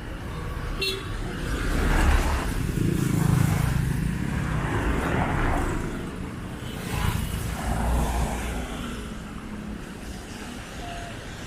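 Street traffic: cars and other motor vehicles passing close by one after another, engine rumble swelling and fading with each, with a brief high beep about a second in.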